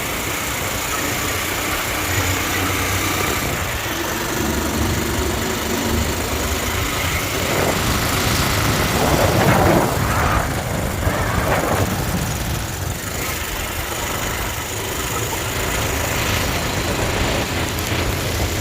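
Motorcycle engine running steadily during a ride, with a louder rush of noise between about 8 and 11 seconds in.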